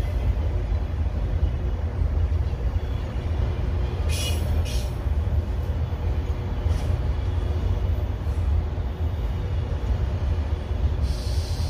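Low steady rumble beside a standing freight train, with two short high-pitched bursts about four seconds in and a fainter one near seven seconds.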